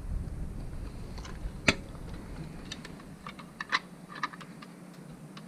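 Scattered light clicks and taps of handling as a fish is hung on a small hand-held hanging scale, the sharpest click about two seconds in and a quick cluster of clicks past the middle.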